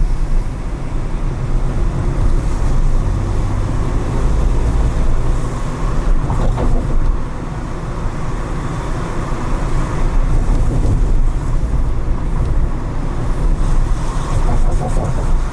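Car driving through city streets: steady road, tyre and engine noise, heaviest in the low end, with no marked changes.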